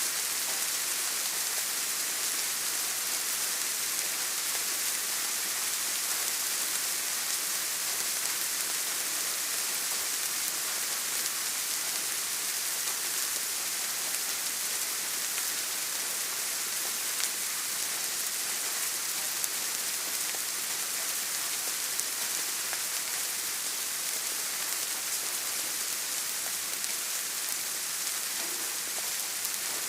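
Steady rain falling: an even, dense hiss of drops, with now and then a sharper single drop tick.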